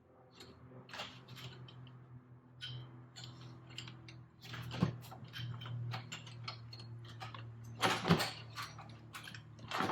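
Metal parts and tools clinking and knocking as a turbocharger is worked into place in an engine bay, with a louder clatter about eight seconds in, over a steady low hum.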